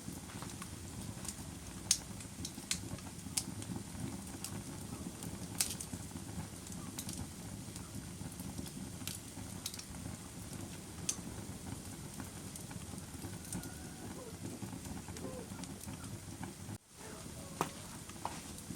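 Fire crackling: a steady low rumble of burning with sharp, irregular pops and snaps about once a second. The sound cuts out for a moment about seventeen seconds in.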